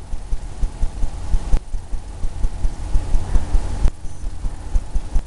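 Paintbrush working oil paint on a canvas on an easel, in quick, uneven strokes and dabs that come through as a run of low thumps, several a second.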